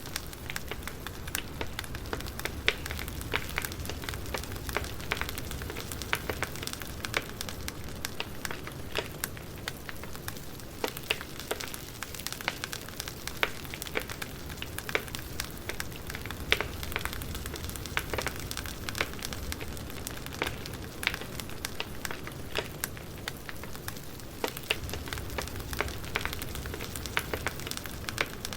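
Wood fire crackling: a steady hiss and low rumble of burning logs with frequent, irregular sharp pops and snaps.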